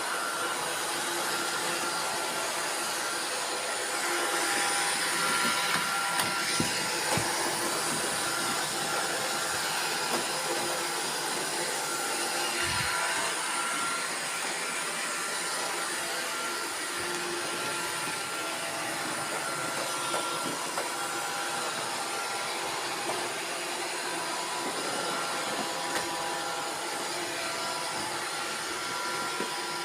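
Several robot vacuum cleaners running at once, a steady mix of motor and fan whine with brush noise. A few short knocks are heard.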